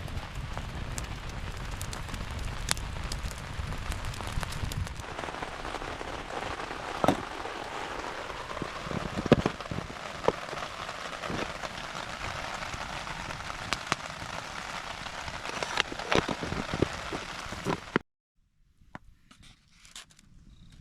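Rain falling steadily, with many sharp ticks of single drops striking a surface. About eighteen seconds in, it cuts off abruptly and it becomes much quieter.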